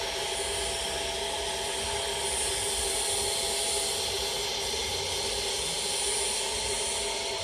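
Vacuum cleaner running steadily: an even rushing motor noise with a steady hum and a thin high whine that comes up about two seconds in.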